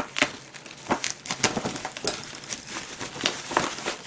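Gift packaging being handled and unwrapped by hand: a run of irregular rustles and sharp crinkles as the wrapping is pulled open.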